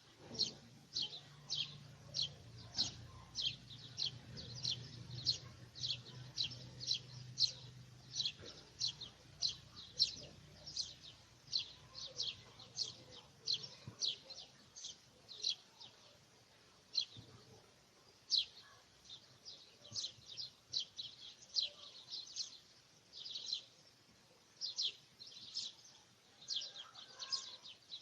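A bird chirping over and over: short, high chirps, about two or three a second, with a few brief pauses. A faint low hum lies under the first third.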